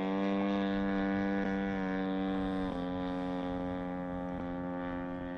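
Giant-scale RC Zero's EME60 60cc two-stroke gas engine and three-blade propeller droning steadily in flight. It drops slightly in pitch about halfway through and slowly fades.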